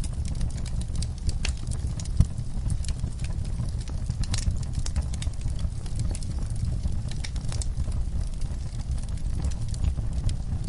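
Wood fire burning in a fireplace: irregular sharp crackles and pops over a steady low rumble of the flames, with one louder pop about two seconds in.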